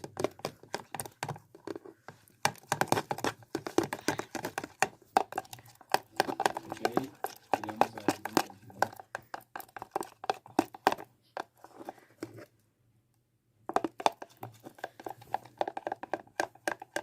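A spoon stirring a sticky glue-and-detergent slime mixture in a container: quick irregular clicks, scrapes and squelches, with a brief break about twelve and a half seconds in.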